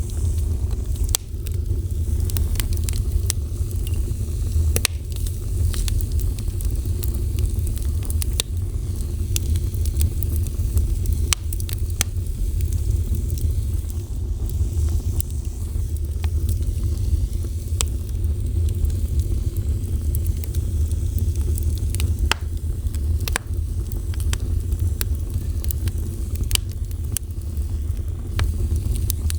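Wood fire burning steadily: a constant low rumble of flame with scattered sharp crackles and pops from the burning wood.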